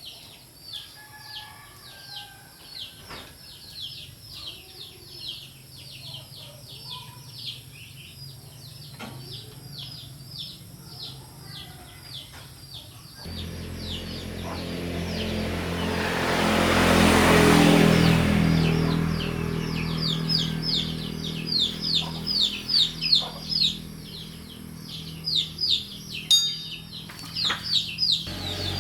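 A small bird chirping over and over in quick, even, high chirps. About halfway through, a motor starts running with a steady low hum, and a rushing noise swells to its loudest a few seconds later before easing off.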